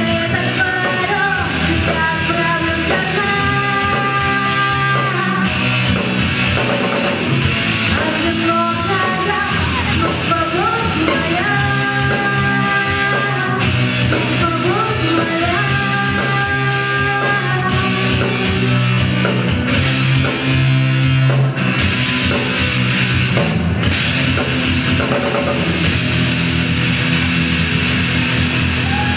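Live heavy rock band playing: distorted electric guitars, bass and drums, with sustained melodic lines over a steady beat.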